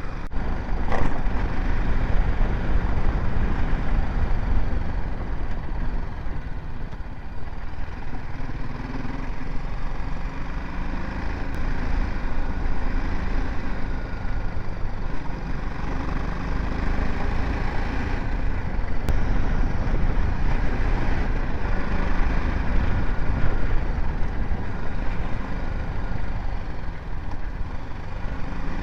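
BMW G 310 GS motorcycle's single-cylinder engine running on the move, under a heavy, steady low rumble of wind and road noise.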